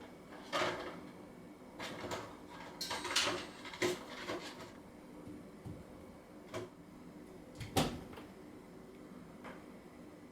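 Washing machine running with a faint steady hum, broken by a series of irregular knocks and clatters, the loudest about eight seconds in.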